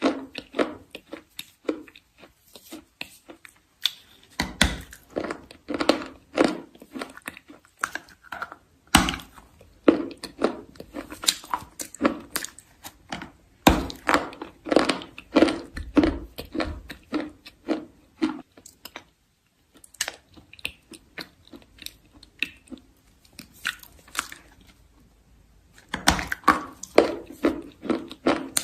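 Chalk being bitten and chewed close to the microphone: fast runs of dry, crackly crunches, with two short pauses in the second half.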